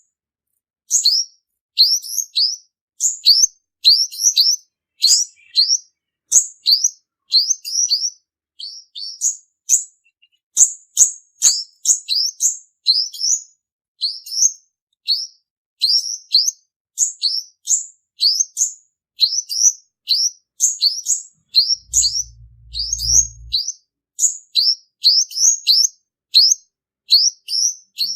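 Male sunbird singing a continuous run of rapid, high, thin chirping notes in quick groups, the song used as a lure call for trapping. A brief low hum comes in about two-thirds of the way through.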